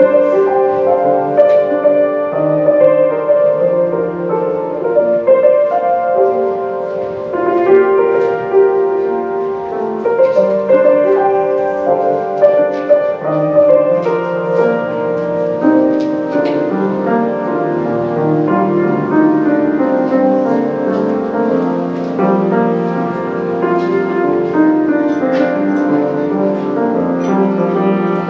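Solo piano playing a continuous stream of notes and chords.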